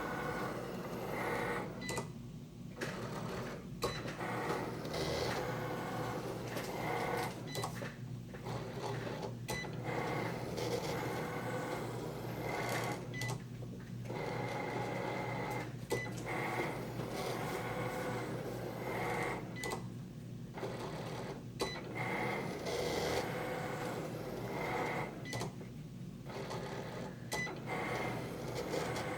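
A mechanical grinding noise with a faint steady whine. It goes in repeating cycles, dropping away briefly about every six seconds.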